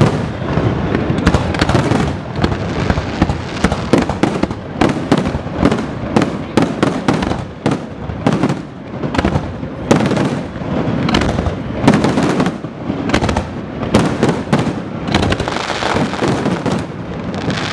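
Aerial firework shells bursting in a dense barrage, many loud bangs coming in quick, irregular succession and overlapping one another.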